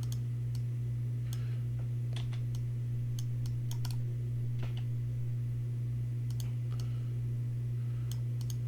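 Irregular clicks of a computer keyboard and mouse being worked, over a steady low electrical hum that is the loudest thing throughout.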